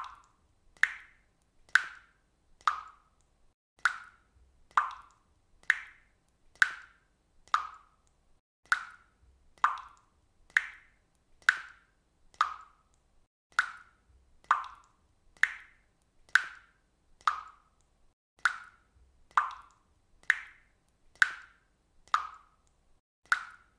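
Water dripping from a faucet, one drop a little more often than once a second. Each drop is a short plop whose pitch shifts slightly from drop to drop.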